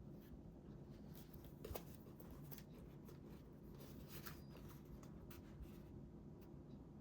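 Faint scattered rustles and light taps of paper and craft tools being handled while scrapbooking, over a steady low hum; one slightly sharper tap about two seconds in.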